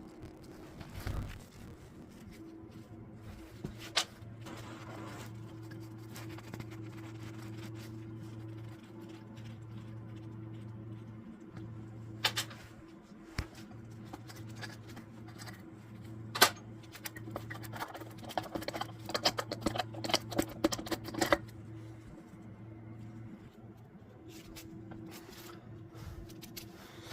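Hand tools and metal engine parts clicking and knocking during an engine teardown, with a quick run of rapid clicks like a ratchet wrench about two-thirds of the way through, over a steady low hum.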